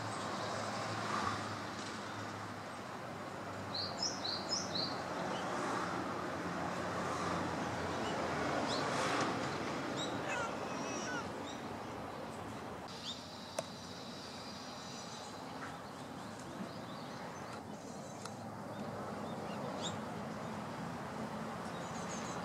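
Outdoor background noise with small birds calling: a quick run of about five short, high chirps about four seconds in, and a high buzzy trill lasting a couple of seconds around the middle.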